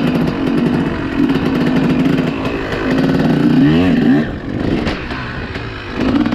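Dirt bike engine running under way, with a quick rev rising in pitch about four seconds in.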